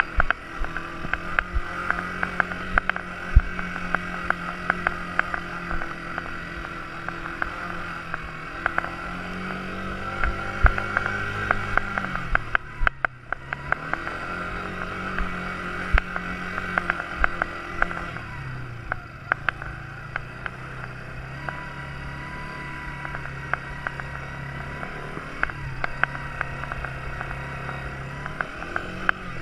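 Quad bike engine running, its pitch rising and falling with the throttle: it drops briefly near the middle, then settles to a lower steady note in the second half. Scattered short knocks and clicks are heard over it.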